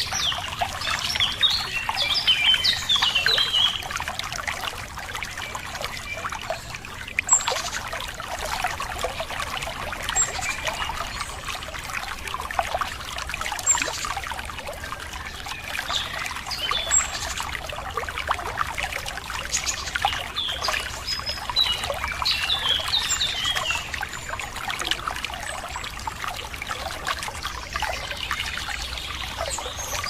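Running water trickling and splashing steadily, with birds chirping over it: a burst of song about a second in, another past the middle, and single short high chirps in between.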